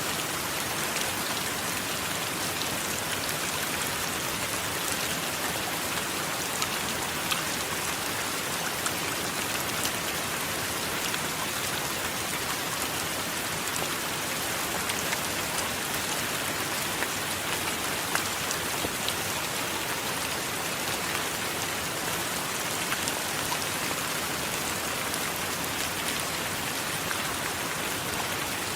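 Steady heavy rain, an even hiss with many scattered sharp drop taps.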